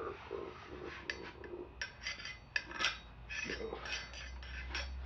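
Light metallic clinks, knocks and scraping as a rag is shoved back through an aluminium suspension fork tube to clean it out.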